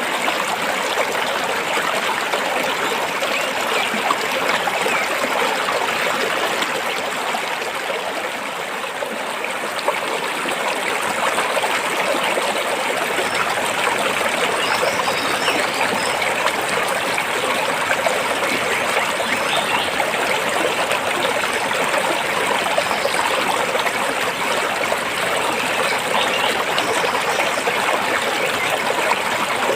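Stream water flowing over and between rocks, a steady, even rush.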